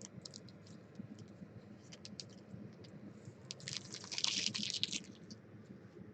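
Trading cards and their pack wrapper being handled by hand: scattered light clicks and taps, then about four seconds in a sharp rustling burst lasting about a second.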